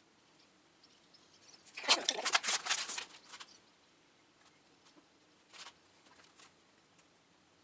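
A rapid clatter of clicks and rustling lasting about a second, starting about two seconds in, then two brief, softer bursts a few seconds later.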